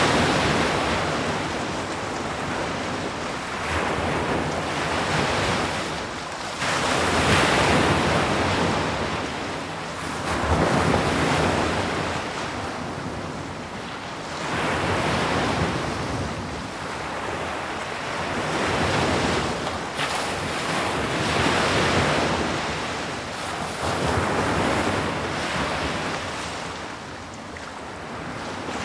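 Sea waves breaking on a shore, the surf swelling and falling back in slow surges every few seconds.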